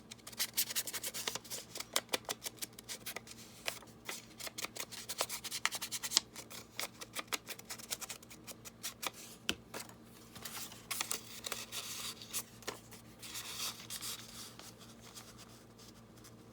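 Paper being handled and worked by hand: a quick run of crisp crackling clicks for about ten seconds, then softer rubbing as the paper is smoothed down onto glue.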